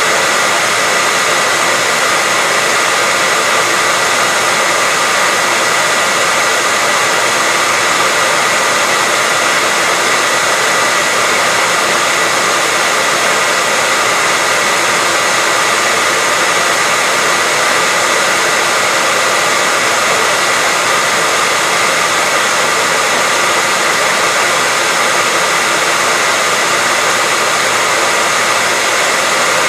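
Hair dryer running steadily with a loud, even whoosh of air and a steady high whine from its fan motor.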